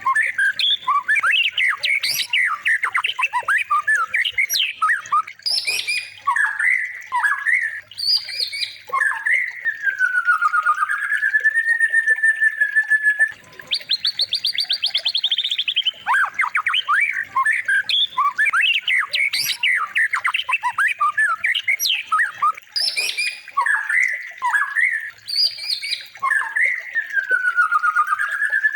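Recorded songbird song played as a training track (masteran) for white-rumped shamas: a dense run of chirps, squawks and quick trills. A long wavering whistle and a fast buzzy trill recur as the recording loops.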